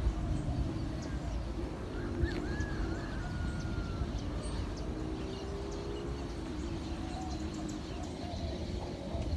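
Steady rush of a rainstorm, heaviest in the low rumble, with faint ticks of drops throughout and a brief wavering bird call about two seconds in.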